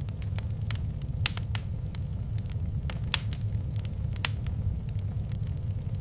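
Wood fire burning in a fireplace: a steady low rumble with irregular crackles and pops, the sharpest about a second in, around three seconds in and just past four seconds.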